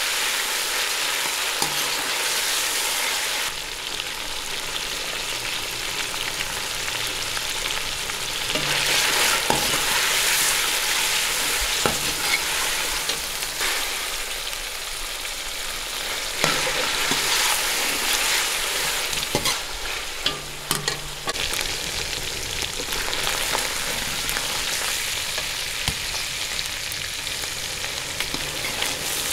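Chicken sizzling in hot oil in a large metal pot, stirred with a metal ladle that knocks and scrapes against the pot a few times.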